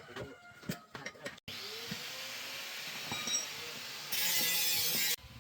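Workshop tool sounds in quick edits: a few clicks and knocks, then a power tool running with a steady hiss. The hiss gets louder and sharper for about a second near the end and cuts off abruptly.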